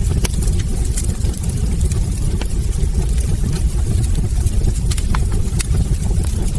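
Wood fire burning in a hearth: scattered sharp crackles and pops from the logs over a steady low rumble of the flames.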